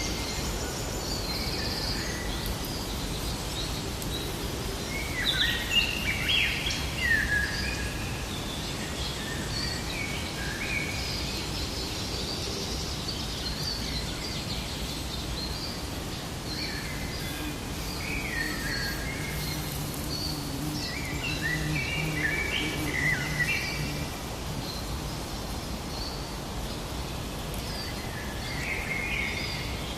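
Forest ambience: several birds singing and chirping in short phrases over a steady background of outdoor noise, with the calls busiest a few seconds in and again in the second half.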